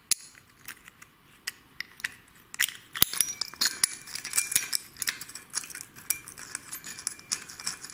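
Steel washers and bolts clinking and clicking as they are handled and fitted onto a fork pivot bolt: a scatter of sharp metallic taps that grows much busier about two and a half seconds in.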